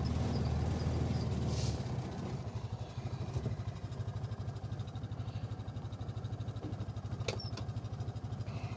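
Vehicle engine running: louder for the first two seconds, then settling into a steady, even putter, with a couple of light clicks.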